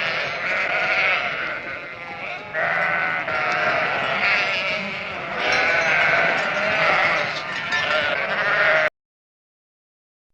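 A flock of farm animals calling together, many overlapping, wavering calls at once, which cut off abruptly near the end.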